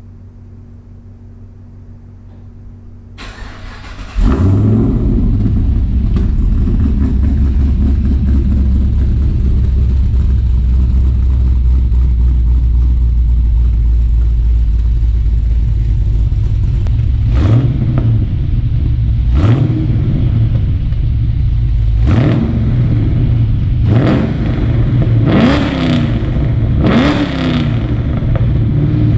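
Holden Caprice's LS3 6.2-litre V8 with a full Pacemaker exhaust (headers, high-flow cats, twin 3-inch system) and custom grind camshaft starting up about four seconds in, then idling loudly. In the second half it is free-revved about six times, each a short rise and fall in pitch.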